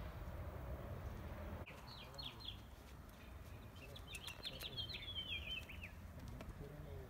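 A small bird chirping in quick runs of short, high, falling notes, twice, the second run longer, over a low steady outdoor rumble.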